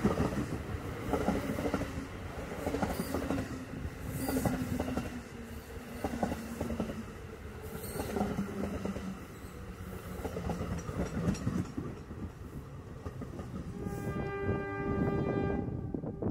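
Passenger train passing at speed: a continuous rushing noise with wheels clattering over the rail joints. A steady pitched tone with overtones is held for about two seconds near the end.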